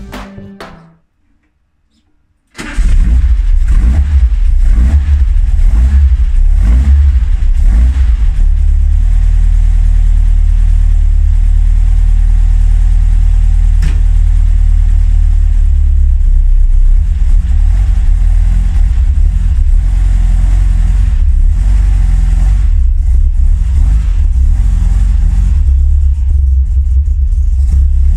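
Air-cooled 1835cc VW Type 1 flat-four with dual Dellorto carburettors, running loud and low after a winter lay-up. It cuts in abruptly a couple of seconds in, its speed rising and falling for the first few seconds before it settles to a steady run. Before it, music fades out into a short silence.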